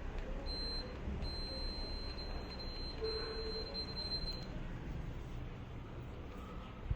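A thin high-pitched steady tone, on briefly about half a second in and then again for about three seconds, over a low steady hum; a short knock near the end.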